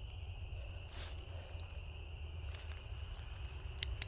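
A steady, high-pitched chirring of insects, crickets by its sound, over a low outdoor rumble, with two sharp clicks near the end.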